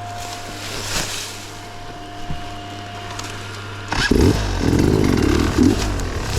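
Off-road enduro motorcycle engine running at a low, steady note with a few light knocks, then opening up loudly about four seconds in and pulling unevenly under throttle.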